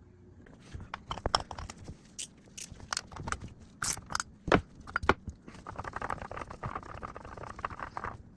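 Metal hand tools clinking and knocking against engine parts in a scatter of sharp, irregular clicks, followed near the end by a few seconds of scraping and rubbing.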